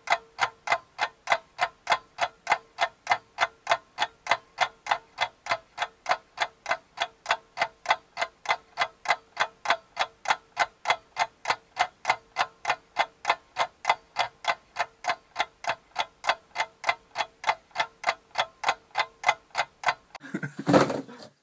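Rapid, perfectly even ticking like a clock or timer, about three ticks a second, over a faint steady hum; the ticking stops near the end, followed by a short burst of noise.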